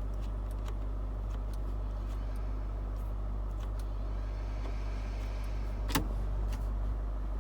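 Range Rover's 3.6 TD V8 diesel engine idling steadily, heard from inside the cabin, with a single sharp click about six seconds in.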